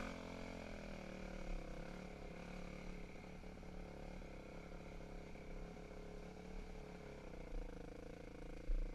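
Dirt bike engine running steadily at low revs, with scattered light clicks and a single thump just before the end.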